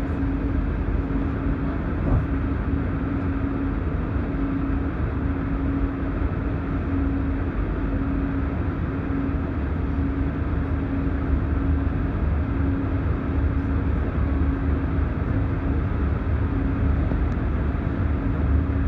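Electric commuter train running, heard from on board: a steady rumble with a hum that pulses on and off, growing a little louder toward the end as the train gets under way out of the station.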